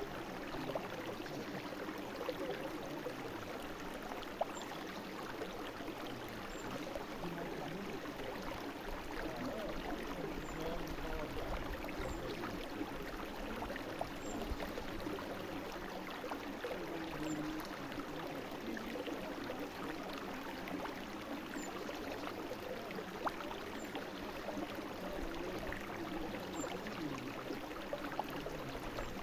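A brook flowing steadily, its water babbling and gurgling with many small splashes.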